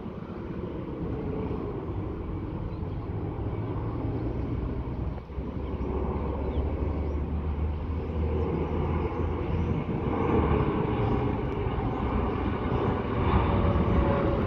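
A locomotive approaching, a steady low drone with a few held low tones that grows gradually louder.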